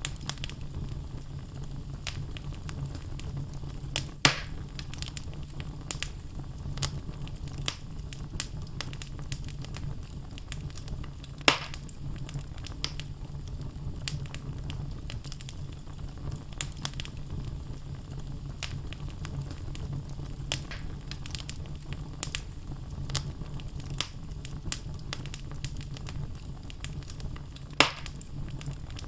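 Wood fire burning in a fireplace: logs crackling with many small scattered pops over a steady low rumble. Three louder, sharper pops come about four seconds in, near the middle and near the end.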